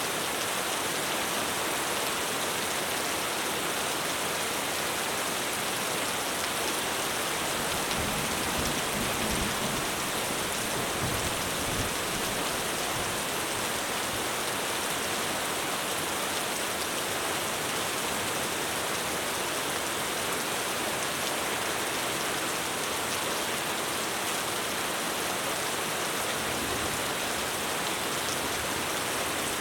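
Heavy rain falling steadily on a roof, a dense even hiss, with a low rumble of thunder about eight seconds in that lasts several seconds.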